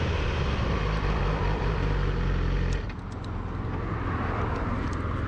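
Yamaha R6's inline-four engine running steadily, then dropping to a quieter idle a little under three seconds in, with a few light clicks around the change.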